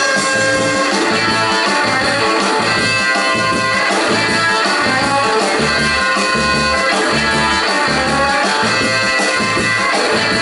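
A live rock and roll band playing an instrumental break in A, with electric guitar lead over bass and drum kit driving a steady beat.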